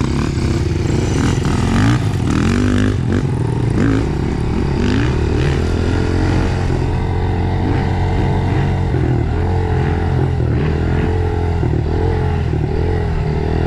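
Dirt bike engine running under way, its pitch rising and falling again and again as the throttle is opened and closed over the trail.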